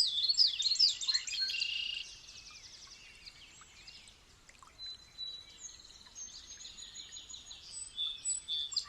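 Several birds singing and calling together: a dense run of quick chirps and trills for the first two seconds, then fainter scattered calls and thin held whistles, with chirping picking up again near the end.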